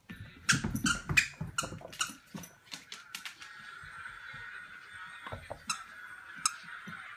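Pembroke Welsh corgi scrambling after a thrown toy: a quick run of thumps and clatter from paws and toys in the first two seconds or so, then a steady high whine for the rest.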